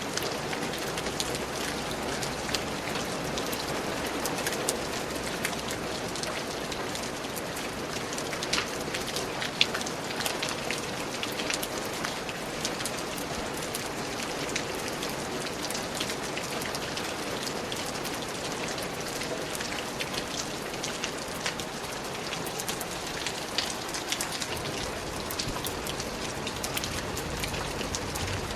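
Steady rain falling, with many distinct drops pattering on leaves and other surfaces close by.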